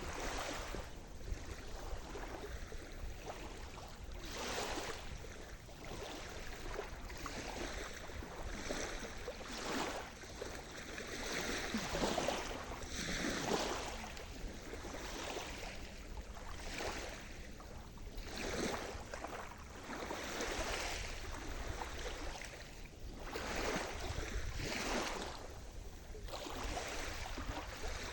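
Sea surf: waves breaking and washing onto the shore in repeated swells of rushing noise, loudest about halfway through.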